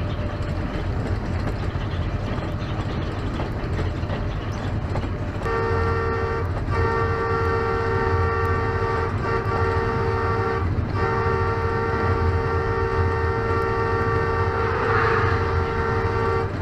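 An electric-hauled passenger train passing at speed with a steady rumble. About five seconds in, a train horn starts blowing one long, flat-pitched note that breaks off briefly three times and is still sounding at the end.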